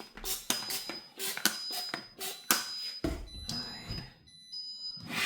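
Refrigerator door-open alarm beeping over and over in a high tone, the signal that the fridge door has been left open. Sharp knocks and clatter of things being handled sound over it.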